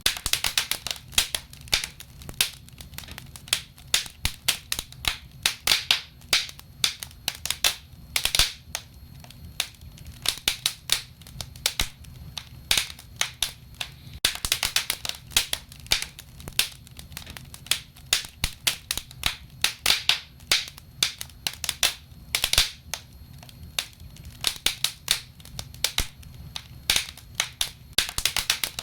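Burning wood crackling and popping in a fireplace: irregular sharp snaps, with quick flurries of crackles every few seconds, over a low steady rumble of the fire.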